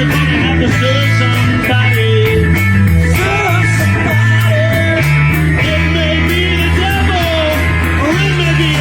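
Live rock band playing an instrumental jam: a lead guitar line bending and sliding over a steady bass and a drum beat with cymbal hits about three times a second.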